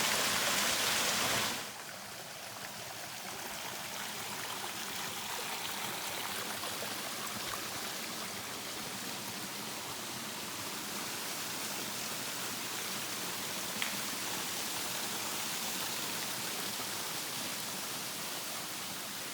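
Steady rushing water of a creek waterfall, an even hiss with no change in rhythm. It is louder for the first second and a half, then drops abruptly to a slightly softer, steady wash.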